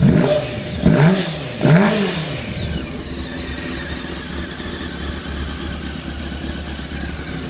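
Honda CBR600F (FX/FY) inline-four motorcycle engine blipped three times in quick succession, each rev rising and falling, then settling to a steady idle about three seconds in.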